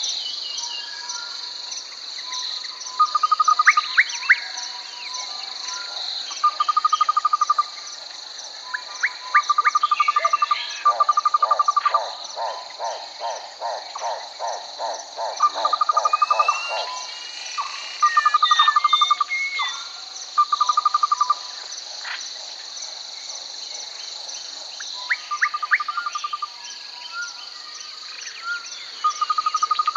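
Outdoor nature ambience: a steady high drone of insects, with short trilling calls every few seconds. A run of lower pulsed calls comes near the middle, and birds chirp a little after it.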